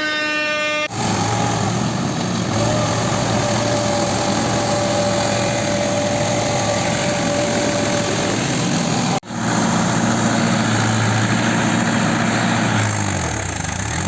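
Mahindra tractor's diesel engine running steadily, its pitch dipping and rising again near the end. A held horn-like tone ends about a second in, and the engine sound breaks off abruptly for a moment at about 9 s.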